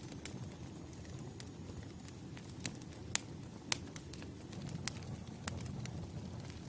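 Campfire crackling: a steady low rustle of burning wood with scattered sharp pops.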